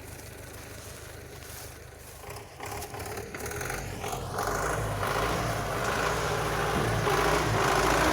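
GAZ-66 army truck's V8 petrol engine running at a low, steady note, then getting steadily louder from about two and a half seconds in as it is driven harder.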